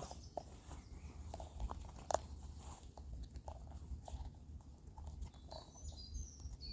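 Faint outdoor ambience: scattered small clicks and taps over a low wind rumble, with a few short bird chirps near the end.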